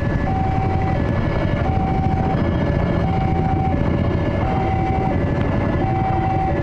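Railway level-crossing warning alarm sounding a steady high-low two-tone, changing pitch about every 0.7 s, over the loud low rumble of a passing train.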